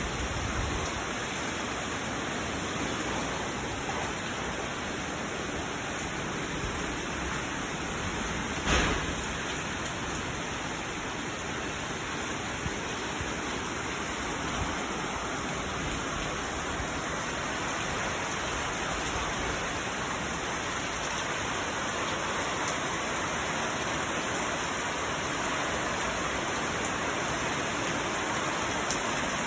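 Heavy rain falling steadily. A single sharp knock stands out a little before nine seconds in.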